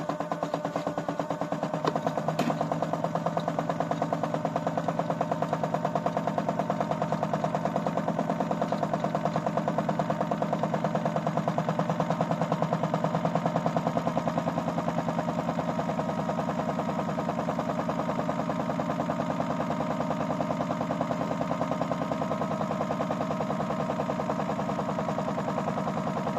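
Small electric motor of a Miele W1 toy washing machine running steadily through its wash cycle, a steady hum with a fast, even rattle.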